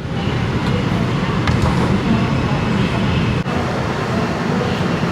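Steady rumble inside an R142 subway car as the train runs, wheels and motors on the track, with a few faint clicks.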